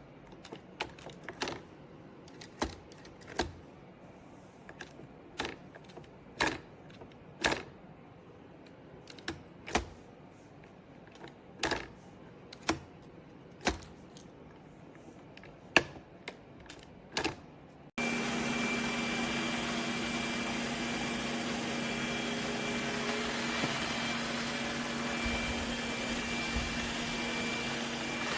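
Sharp, irregular clicks, roughly one a second, give way after an abrupt cut to the steady whir of a robot vacuum's motor, with a constant low hum and a thin high whine.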